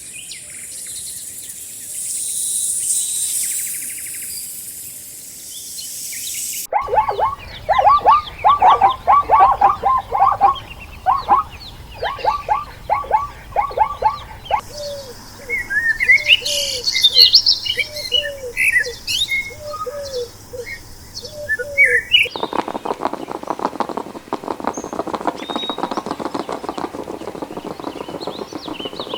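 A string of separate animal-sound clips with abrupt cuts between them, mostly bird calls: first a high hiss, then quick runs of falling calls, then high chirps over lower falling notes, then a dense rapid buzzing.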